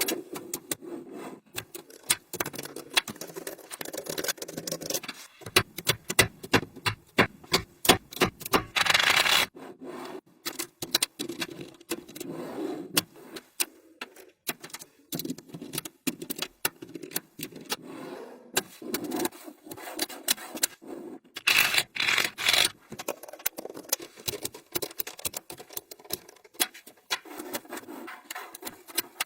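Small magnetic balls clicking and snapping together one after another, with denser rattling bursts about nine seconds in and again about twenty-two seconds in as balls are scraped or rolled together.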